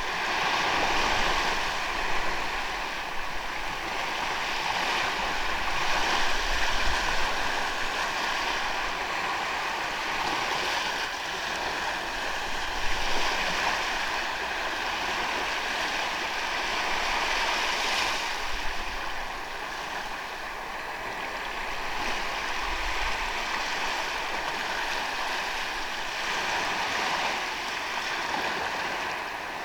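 Ocean waves breaking and washing up on a sandy beach, a continuous rushing surf that swells and eases every few seconds. Low rumbles of wind on the microphone come and go.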